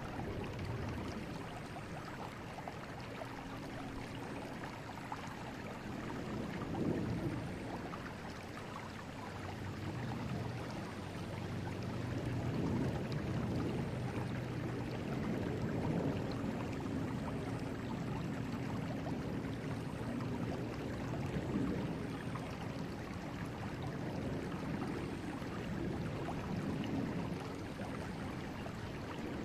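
River current flowing: a steady rush of water that swells and eases every few seconds.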